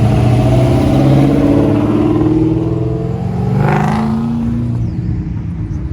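Car engines running as cars drive past, with one engine revving up briefly a little before four seconds in.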